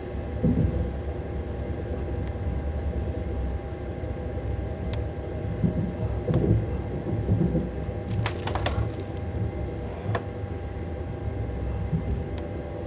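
Lastochka electric multiple-unit train running: a steady low rumble of the wheels on the rails with a steady electrical hum, and short clicks and creaks here and there, the sharpest cluster about eight seconds in.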